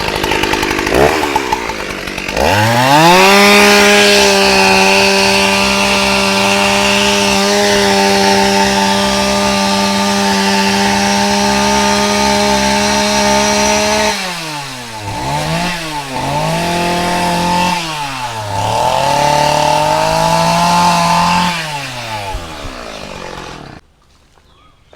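Chainsaw revving up to full throttle and running at a steady high pitch for about ten seconds. The revs then drop and climb again several times before the engine cuts off near the end.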